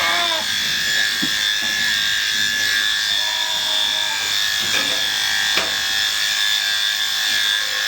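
Electric sheep-shearing handpiece running steadily, with a constant high motor whine and hiss as it cuts through the fleece.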